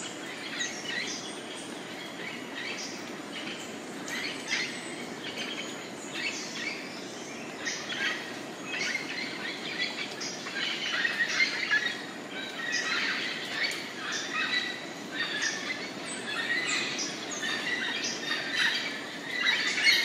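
Rainforest birds calling: many short chirps and squawks overlapping, growing busier about halfway through, over a steady low background hum.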